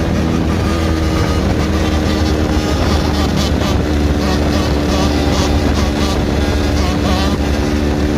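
Dirt bike engine running at a steady speed, with a strong low rumble of wind on the microphone.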